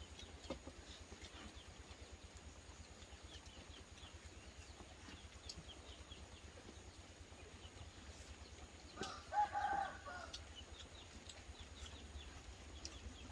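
Faint bird chirps, with one louder call lasting about a second some nine seconds in.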